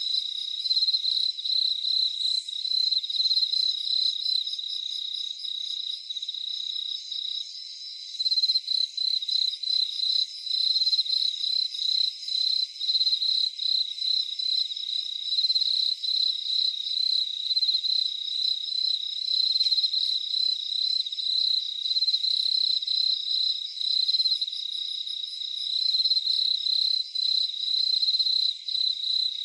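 Crickets chirping in a steady night chorus: a continuous high, rapidly pulsing trill with a fainter, higher insect band above it.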